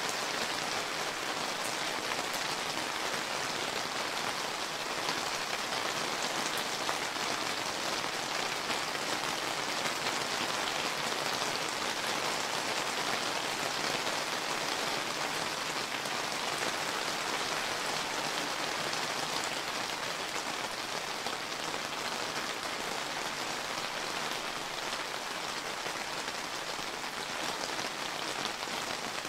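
Steady rain falling and pattering on surfaces, an even hiss of many drops with no change in strength.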